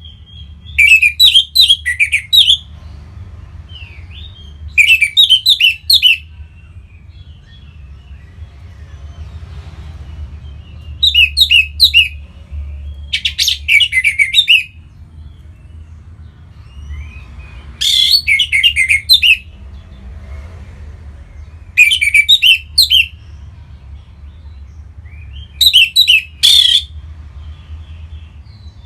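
Orange-headed thrush singing: about seven loud phrases of quick, varied whistled notes, each a second or so long, a few seconds apart, over a steady low hum.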